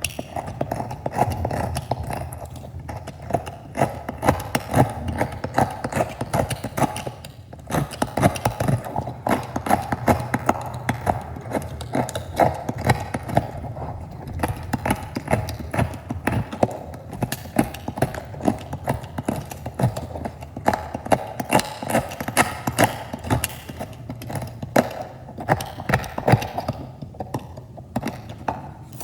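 Knife cutting repeatedly through dry, crunchy soap: a dense run of crisp crackles and snaps, with a short lull about seven and a half seconds in.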